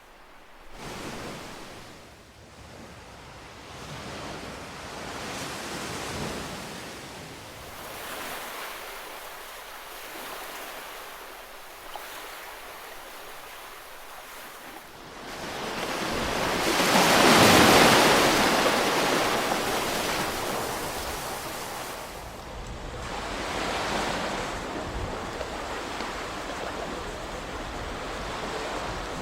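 Ocean waves breaking and washing up, several swells rising and falling in turn, the biggest building a little past halfway and fading away over a few seconds.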